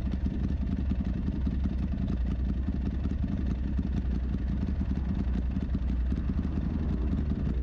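Motorcycle engine idling steadily at an even, unchanging pitch.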